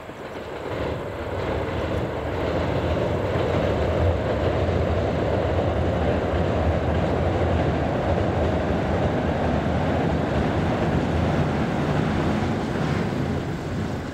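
Train running past: its noise builds over the first two seconds, holds steady with a low rumble, then fades near the end.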